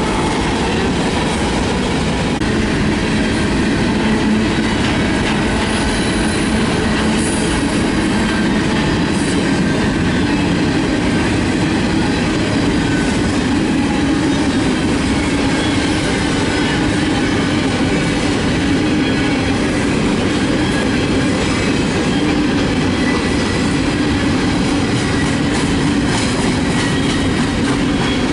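A train's cars rolling past close by: a steady, loud run of steel wheels on rail that holds unchanged throughout, with faint high wheel squeal.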